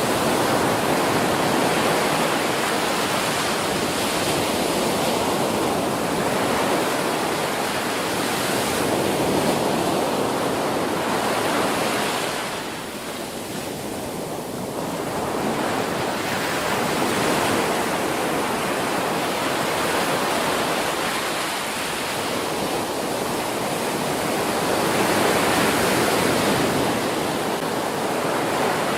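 Ocean surf: waves breaking on a beach, a continuous rushing wash that swells and eases every few seconds, dipping for a couple of seconds about twelve seconds in before building again.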